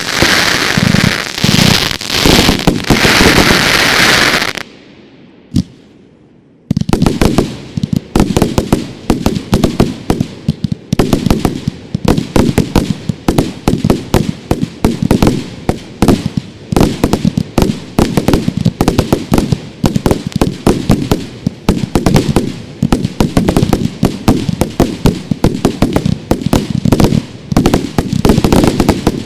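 Consumer fireworks going off: first a dense hissing crackle for about four seconds, then a brief lull, then a long rapid barrage of sharp bangs and crackles from a firing battery.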